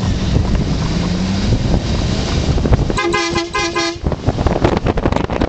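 Chevrolet Silverado 1500 pickup under way, its engine running with tyre and wind noise. About three seconds in, the horn gives a quick run of short toots lasting about a second.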